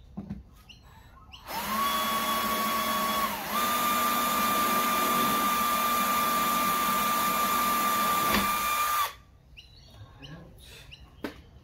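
Power drill boring a bolt hole through a jet ski's hull, running at a steady whine for about seven seconds, easing off briefly once about two seconds in, then stopping.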